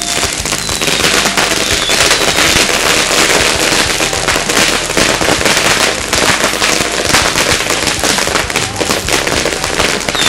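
Hundreds of firecrackers going off at once: a dense, continuous barrage of rapid small bangs and crackling, building up about a second in, with a few faint short whistles.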